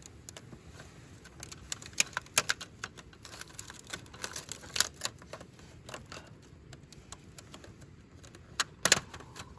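Scattered sharp clicks and light knocks at an uneven pace, with a louder pair of clicks near the end.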